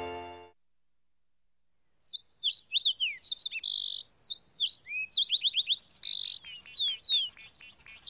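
Cartoon songbird chirping and tweeting: quick whistled notes that glide up and down, with short rapid trills, starting about two seconds in. Before it, a held music chord fades out.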